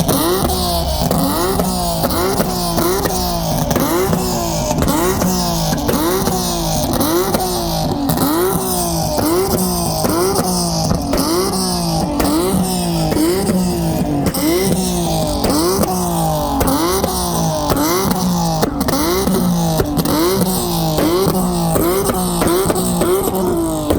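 Car alarm or aftermarket siren on an Infiniti, wailing over and over: a pitched tone that slides up and drops back about one and a third times a second, very evenly.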